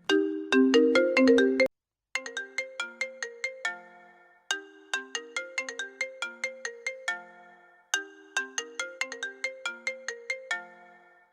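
iPhone ringtone: a melody of quick, bright notes. One loud phrase cuts off under two seconds in, and after a short gap a quieter melody starts, repeating about every three and a half seconds.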